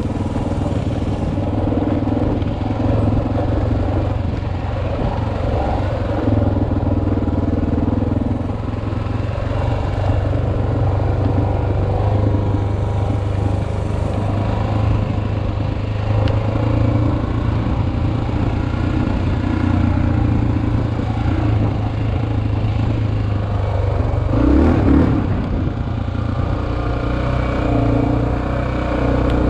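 Single-cylinder four-stroke dual-sport motorcycle engine running under way on a dirt trail, heard from the rider's helmet, its pitch rising and falling a little with throttle, with a brief louder burst about 25 seconds in.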